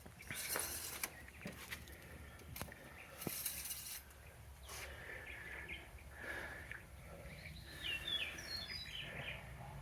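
Quiet outdoor background with a low steady rumble, two brief bursts of hissing noise about half a second and three seconds in, and a few short bird chirps near the end.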